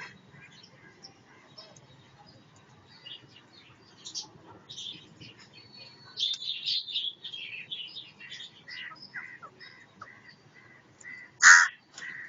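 Parrots squawking and chattering in many short, harsh calls, with a busy run of calls about six seconds in and one loud squawk near the end.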